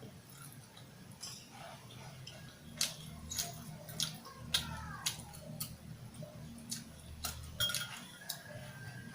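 Close-up mouth sounds of someone chewing grilled barbecue meat: a series of wet clicks and smacks, about two a second through the middle of the stretch, over a low background hum.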